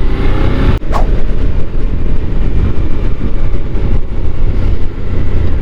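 Riding on a motorcycle: a loud, uneven low rumble of wind buffeting the rider's microphone mixed with engine and road noise, with a brief drop and a click about a second in.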